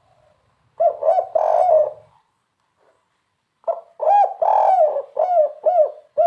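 Spotted dove (tekukur) cooing in its 'kuk 3' style: two phrases of rising-and-falling coo notes, a short one about a second in and a longer one of five or six notes starting near the middle.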